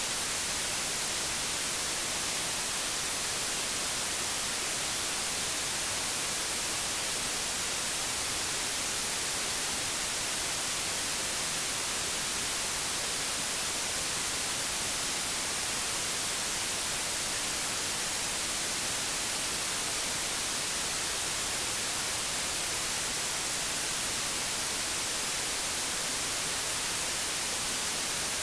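Steady hiss of analogue television static, an even white noise without change, strongest in the high frequencies.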